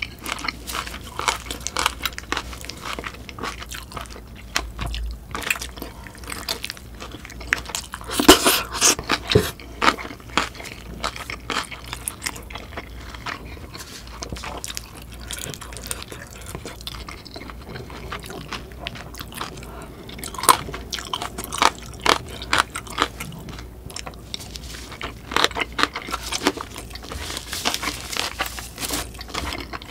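Biting into a grilled sausage and chewing it, with a steady run of wet mouth clicks and crunches, busiest about eight seconds in and again near the end.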